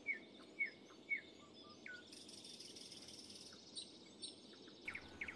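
Faint outdoor birdsong: short falling chirps repeated about every half second, with more chirps near the end. A high insect trill comes in for about a second and a half in the middle.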